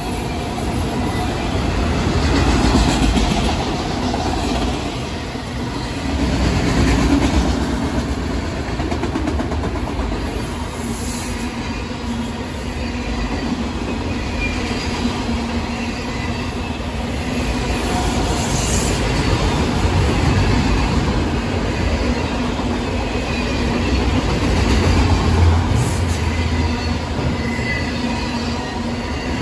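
Freight train of autorack cars rolling past: a steady rumble of steel wheels on the rails that swells and eases as the cars go by, with brief faint high squeals now and then.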